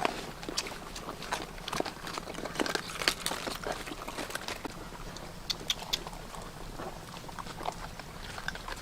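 A dog eating wet food, chewing and licking with many quick, irregular smacks and clicks.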